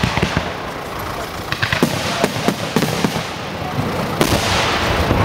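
Aerial fireworks display: shells bursting in quick succession, a run of sharp bangs and crackles, then a steadier crackling hiss from about four seconds in.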